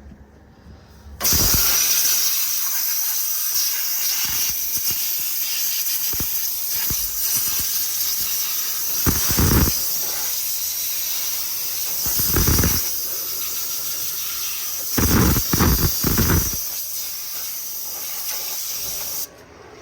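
Compressed-air blow gun hissing as it blows dirt out of a bulldozer's radiator. It starts about a second in, runs steadily with several louder surges, and cuts off just before the end.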